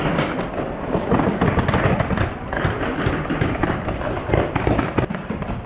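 Quick, irregular footfalls with gear knocking and rattling, a paintball player moving at pace; one sharper crack about five seconds in.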